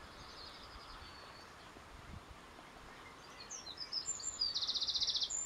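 Songbirds singing over a steady background hiss: a faint high trill about half a second in, then chirps and a louder, fast high trill near the end.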